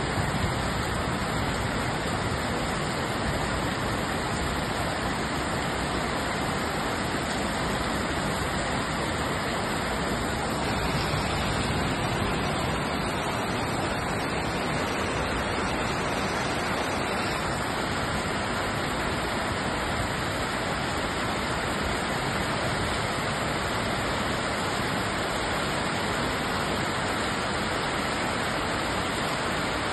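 Heavy tropical-storm rain pouring down, a dense, even rush of noise that holds steady without a break.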